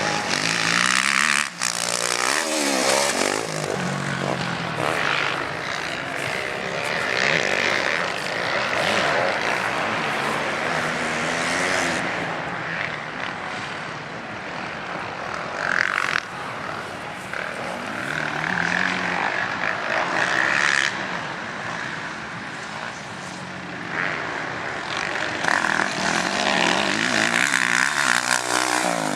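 Motocross motorcycle engines racing, several bikes revving hard with the pitch climbing and dropping again and again as they accelerate, shift and pass.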